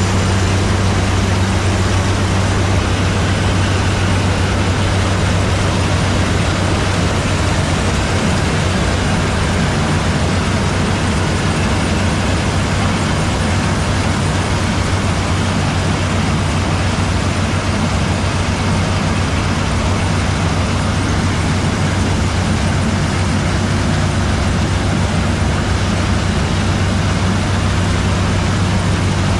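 Zmaj 142 combine harvester running steadily: a constant low engine hum under a dense, even mechanical rush.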